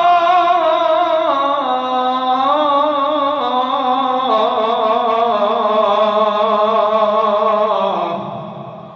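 A man's solo voice chanting the adhan, the Islamic call to prayer: one long held, ornamented phrase with vibrato that steps down in pitch, breaking off about eight seconds in and fading away.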